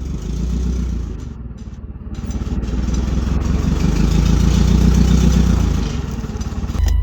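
Vehicle engine running, its revs and loudness rising through the middle and easing off near the end.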